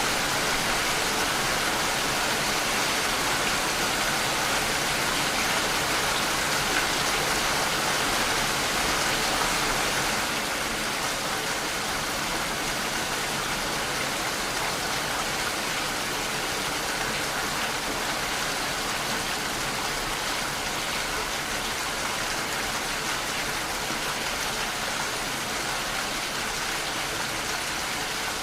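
Steady rain falling, an even hiss with no distinct drops standing out; it turns slightly quieter about ten seconds in.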